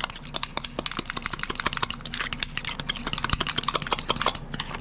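A utensil stirring garlic mayonnaise in a bowl, a rapid, irregular clicking and tapping against the bowl, with a steady low hum underneath.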